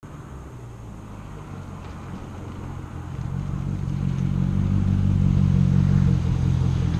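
2015 Chevrolet Camaro SS's 6.2-litre V8 running at a steady low speed through a muffler-delete, resonator-delete exhaust with an X-pipe, a low rumble that grows louder over the first several seconds.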